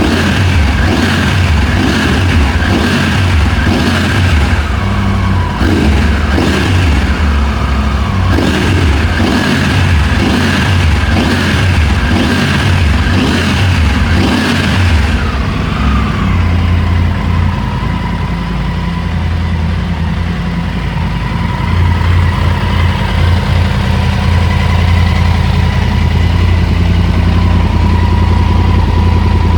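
Triumph Tiger 900's three-cylinder engine through an MIV aftermarket exhaust, blipped repeatedly about once a second, then settling to a steady idle about halfway through.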